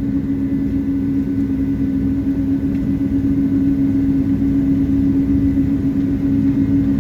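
Cabin noise inside a Boeing 777-200 taxiing after landing: a steady low rumble with a constant low hum.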